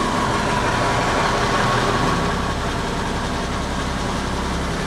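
1993 Kato excavator's Mitsubishi diesel engine running just after start-up, easing down and settling into a steady idle a little over two seconds in.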